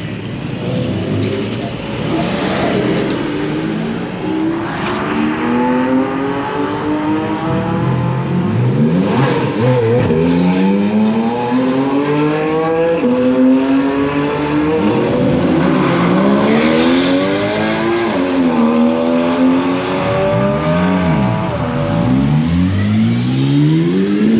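Several performance car engines revving hard and accelerating along a track. Their pitch climbs repeatedly and drops sharply at gear changes, with more than one car audible at once.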